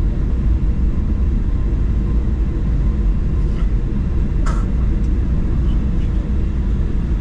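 Steady low rumble inside the cabin of a Boeing 737-900 taxiing on the ground, its CFM56 engines at idle. A single sharp click sounds about four and a half seconds in.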